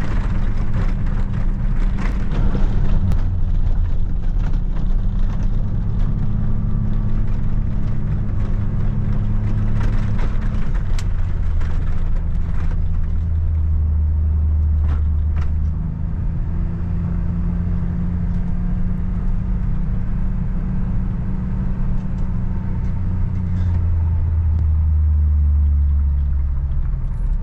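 Motor vehicle engine running, a low hum whose pitch steps up and down every few seconds as the revs change, with scattered short clicks and scrapes in the first half.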